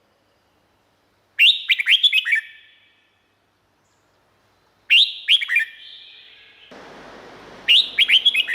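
Red-whiskered bulbul singing three short phrases of quick, clear, downward-slurred whistled notes, each about a second long, with pauses between. A steady background hiss comes in shortly before the last phrase.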